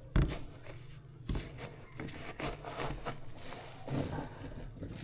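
A series of knocks and clatters from things being handled: the loudest just after the start, another a little over a second in, several lighter ones close together, and one more about four seconds in, over a low steady hum.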